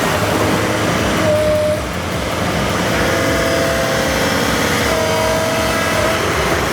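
A heavy machine's engine running steadily, with a high whine that comes and goes several times.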